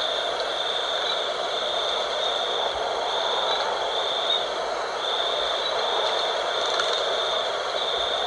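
Night wind blowing steadily, with a high trilling tone going on and off in pulses of about a second over it.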